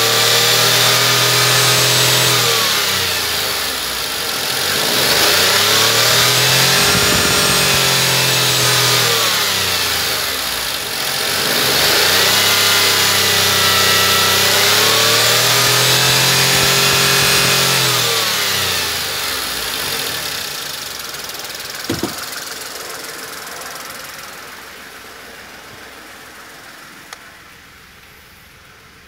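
Skoda 1.2-litre three-cylinder 12-valve petrol engine (CGPC) revved up and held at high revs three times, dropping back briefly between, then falling to idle and growing fainter. A single sharp click about 22 seconds in.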